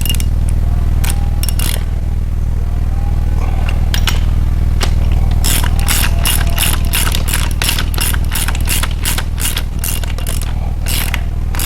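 A socket ratchet clicking in quick even runs, about four or five clicks a second, as a rocker arm nut on a 350 Chevy small-block is turned during valve adjustment. A steady low hum runs underneath the whole time.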